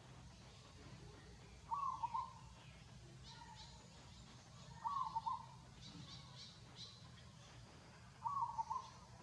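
A bird repeating a short call of a few quick notes three times, about three seconds apart, with faint higher chirping between the calls.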